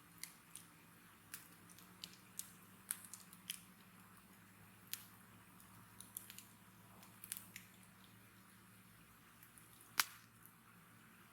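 Wood bonfire crackling, with irregular small snaps and pops and one sharper pop about ten seconds in.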